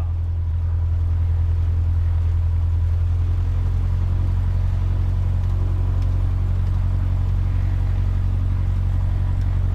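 Cessna 150's Continental O-200 four-cylinder engine idling steadily with the propeller turning, a constant low drone.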